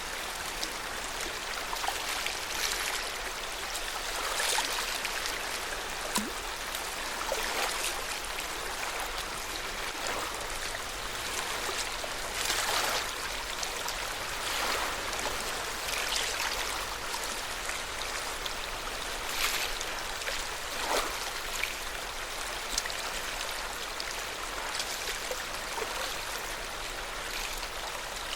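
Lake water lapping: a steady wash with irregular small splashes every second or two.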